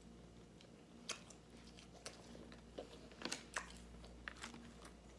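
A person chewing breaded chicken nuggets close to the microphone, with short crisp crunches every second or so.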